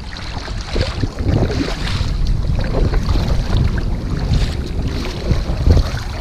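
Wind buffeting the microphone in an uneven rumble, with water splashing and lapping around a sea kayak out at sea.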